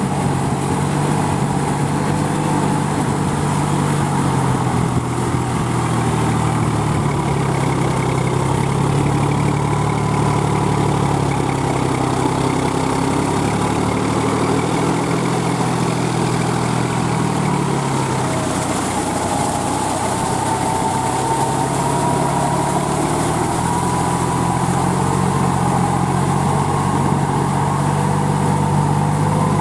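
New Holland 4710 4WD tractor's three-cylinder diesel engine running steadily, its speed dipping and wavering about halfway through before settling again.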